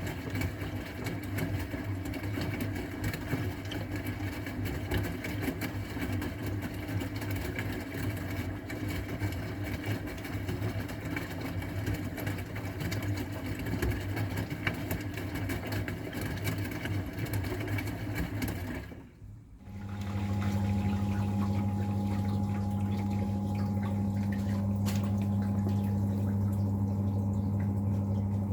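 AEG Öko-Lavamat 693 washing machine running mid-programme: a motor hum with sloshing and churning noise for about 19 seconds, then a brief pause, then a steadier, even hum with water running, typical of the drain pump pumping out.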